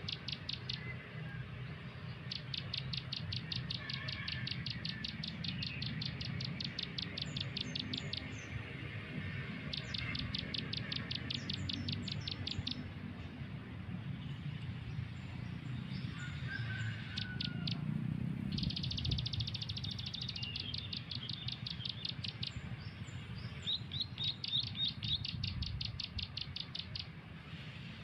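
Small bird chirping in fast runs of short, high, evenly repeated notes, each run lasting a few seconds with brief pauses between, over a low steady background rumble. This is the kind of call used as a lure when mikat trapping with phone-played recordings.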